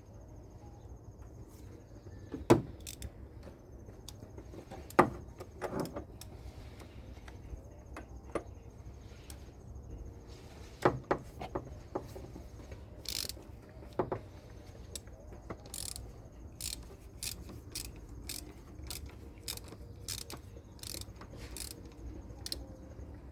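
Socket wrench with a 32 mm socket working loose a car's plastic cartridge oil-filter housing: a few separate sharp metal clicks and knocks, then a quicker run of clicks, about two a second, through the second half.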